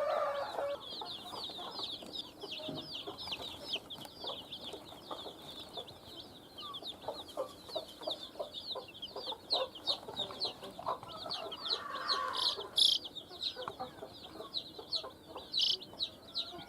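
A group of baby chicks peeping continuously: many short, high, falling cheeps, several a second, with a few louder ones near the end.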